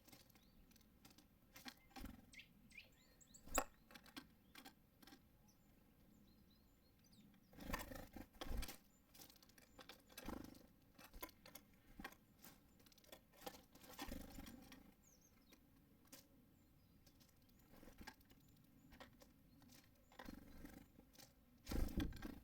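Faint, scattered taps and clicks with a few short rustling flurries, as small birds land, peck and shuffle at a feeder.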